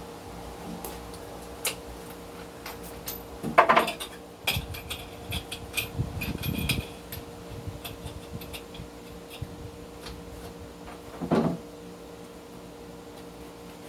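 Workshop handling noises: a cluster of knocks and clinks of metal tools being moved, with two brief louder scrapes, over a steady electrical hum.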